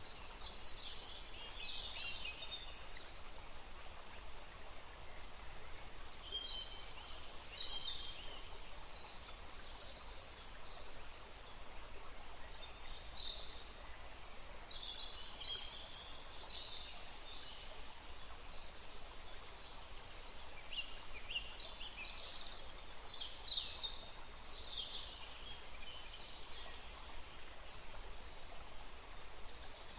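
Several small birds chirping and trilling in scattered bursts over a steady rushing hiss of wind in the trees and running water.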